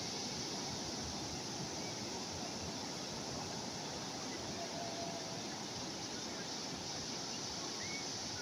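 Steady hiss of calm sea waves, even and unbroken, with a couple of faint short chirps about halfway through and near the end.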